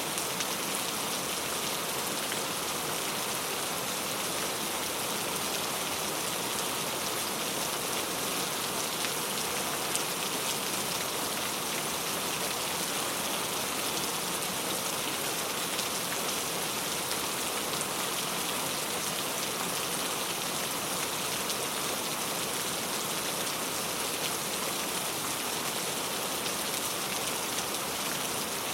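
Steady rain falling without pause, an even hiss with scattered drop ticks.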